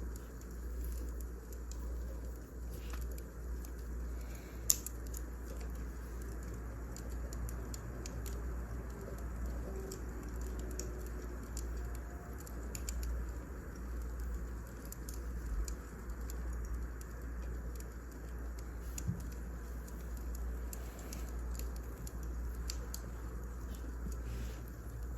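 Wood fire burning: a steady low rumble with scattered small crackles and one sharp, louder pop about five seconds in.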